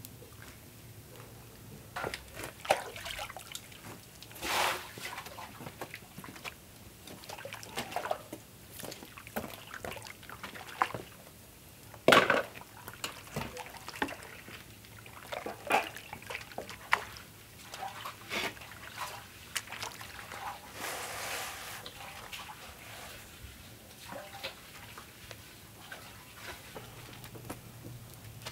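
Liquid sloshing, splashing and being poured, in irregular bursts with scattered small knocks of handling.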